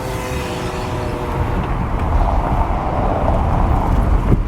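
Car driving at night, heard from inside: a steady rumble of road and wind noise that grows louder as the car picks up speed.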